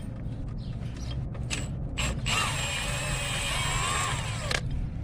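Ratchet wrench loosening an alternator mounting bolt: scattered clicks, then a continuous stretch of ratcheting a couple of seconds in that lasts about two seconds and stops suddenly.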